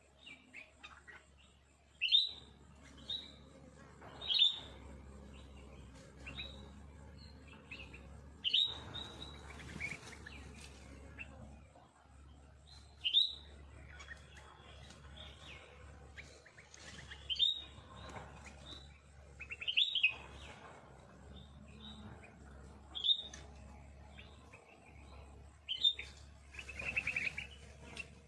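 Wild birds chirping, with short sharp calls every one to three seconds and a longer chattering call near the end.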